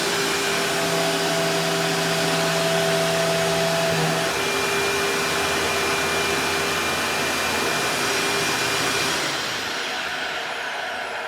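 Shop vac running steadily on a kitchen floor, then switched off about nine seconds in, its motor winding down with a falling whine.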